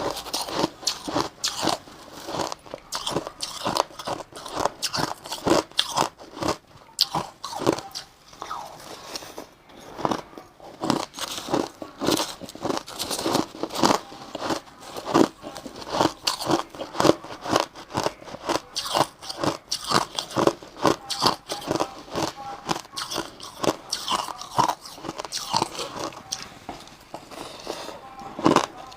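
Crushed ice being bitten and chewed close to the microphone: dense, irregular crunching, several crunches a second.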